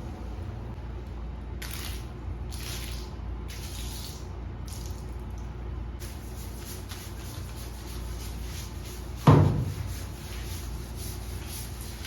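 Water running and splashing in a sink during cleaning, with a few short hissing bursts in the first half and a single loud knock about three-quarters of the way through.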